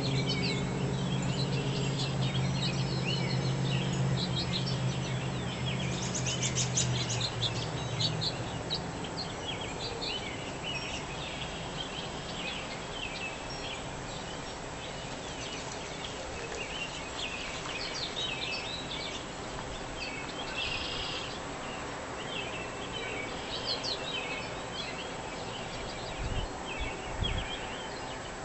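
Several birds chirping and singing at once, many short overlapping calls and trills. A low steady hum sits underneath for the first eight seconds, and two low thumps come near the end.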